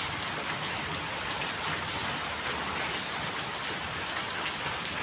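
Heavy rain falling steadily, with scattered faint drop ticks in the hiss.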